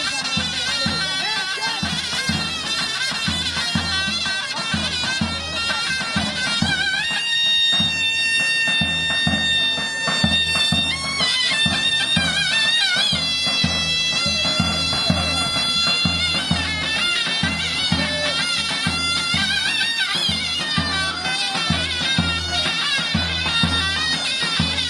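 Zurna and davul playing folk dance music: a shrill reed melody over a steady bass-drum beat of about two strokes a second, with a long held high note about seven seconds in.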